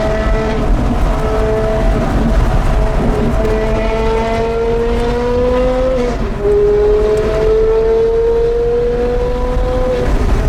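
Porsche Carrera GT's 5.7-litre V10 through an FVD exhaust, accelerating under load with a slowly rising pitch. The note drops sharply at an upshift about six seconds in, then climbs again.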